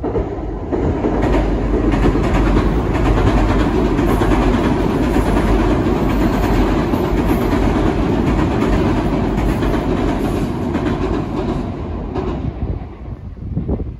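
JR East E261 series 'Saphir Odoriko' electric limited express crossing a steel girder viaduct: a loud, steady rumble of wheels on the steel bridge, dying away near the end as the last cars pass.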